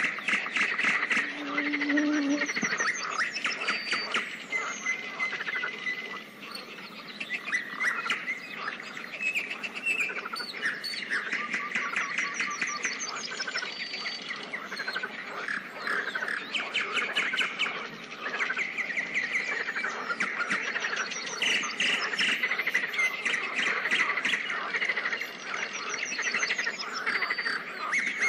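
Pond chorus: many frogs and birds calling at once, dense and unbroken throughout.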